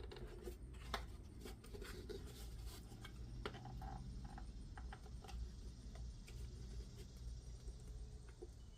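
Light scratching and rubbing with scattered small clicks and taps, like hands working on a small part, over a steady low hum.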